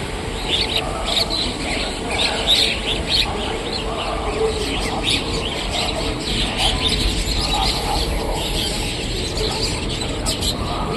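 House sparrows chirping: many short, overlapping chirps going on without a break, over a steady low background hum.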